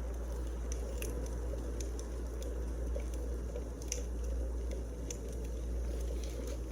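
Wood fire burning in a fireplace: a steady low rush with scattered small, sharp crackles and pops.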